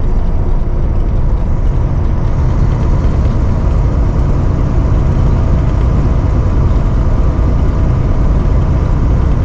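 Semi truck cab interior while driving: a steady low drone of the diesel engine and road noise, with a faint steady whine.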